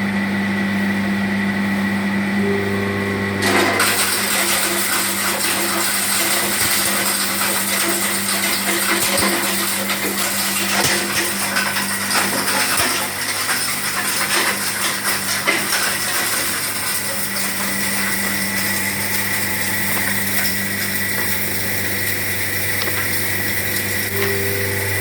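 Stone-pulverizing hammer mill running with a steady hum. About three and a half seconds in, a dense gritty rattle of stone being crushed inside the mill starts and continues.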